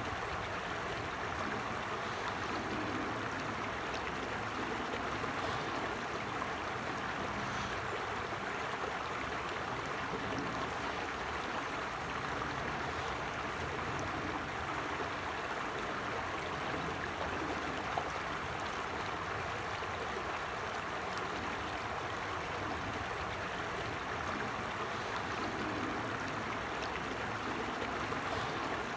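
A small forest stream flowing over stones: a steady, even rush and babble of water.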